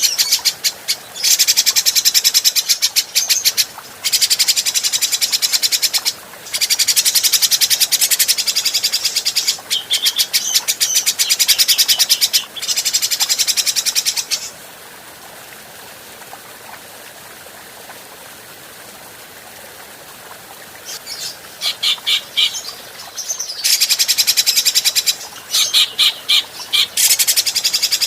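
Cucak jenggot (grey-cheeked bulbul) singing in bouts of very rapid, high, rattling chatter, each about two to three seconds long with short pauses between them. About halfway through it goes quiet for several seconds, then comes back in shorter bursts.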